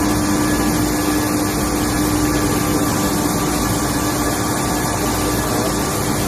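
Okuma LH-55N CNC lathe running: a steady machine hum with one constant tone under an even noise.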